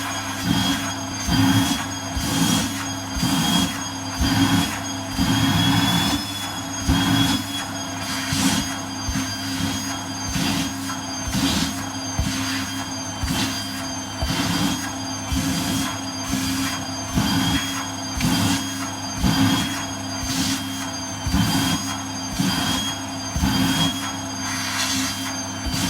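Vacuum cleaner running with a steady high motor whine, its suction note surging about once a second as the nozzle is pressed against and drawn over tights and bare skin.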